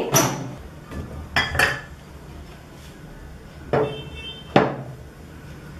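A covered bowl being handled and set down, with about five separate knocks and clinks of dish against lid and surface, one of them ringing briefly.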